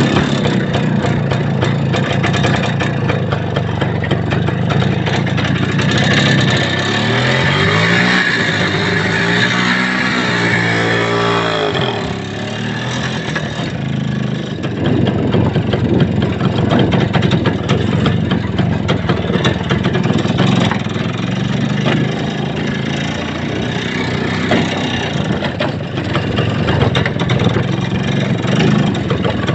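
Vehicle engine running under way, with a lot of road and body noise. About a quarter of the way in, the engine pitch rises and then drops back over several seconds.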